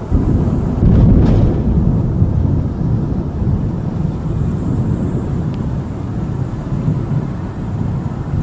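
Thunder: a sudden clap that swells to its loudest about a second in, then rolls on as a long, low, steady rumble.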